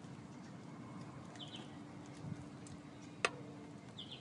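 Quiet background with a faint steady hum, two short high bird chirps, and one sharp click a little past three seconds in.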